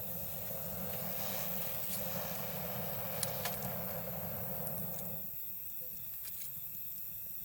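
Wood campfire crackling with a few sharp pops about three seconds in, over a steady chorus of night insects. A broad rush of noise runs under it and dies away about five seconds in.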